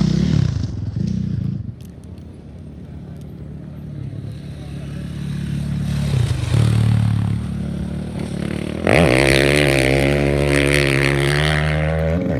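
Off-road race motorcycle engines running hard. The engine sound fades about two seconds in and slowly builds again. About nine seconds in, a bike's engine suddenly comes in loud at high revs and holds.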